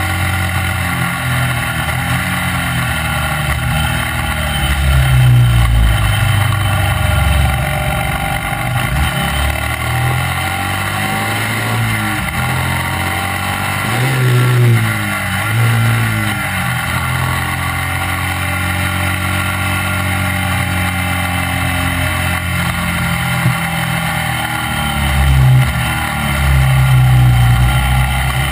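Racing sidecar outfit's motorcycle engine running hard at speed, its revs dropping and climbing again through gear changes about halfway through and again near the end, over steady rush of wind and road noise.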